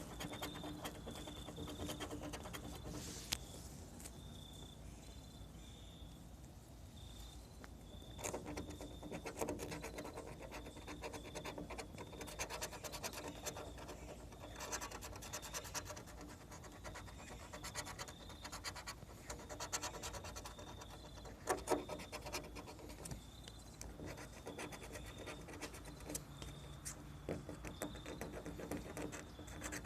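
Scratch-off lottery ticket being scratched, a quick run of rubbing strokes that stops and starts.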